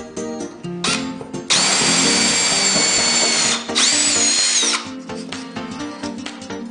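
Power drill boring into wood: one run of about two seconds with a steady high whine, then a shorter run about a second later that spins up with a rising whine, plus a brief blip beforehand. Guitar background music plays throughout.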